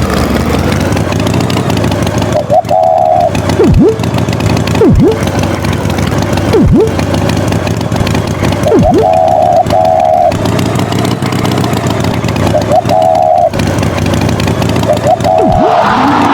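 A cartoon tractor engine runs steadily under repeated short, wavering toots every few seconds. Several quick downward-swooping sound effects are mixed in.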